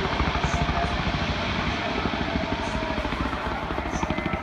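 Fireworks finale barrage: a dense, continuous rumble of many shells bursting in quick succession, with sharper, louder bangs breaking in right at the end.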